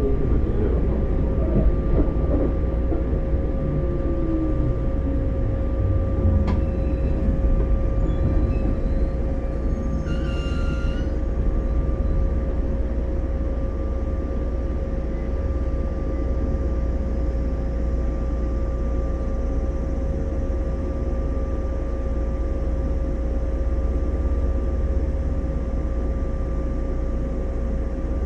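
Inside a 115-series electric multiple unit (motor car KuMoHa 114-501): the train slows to a stop, with motor and wheel noise falling in pitch over the first several seconds, then stands with a steady electrical hum. A brief high tone sounds about ten seconds in.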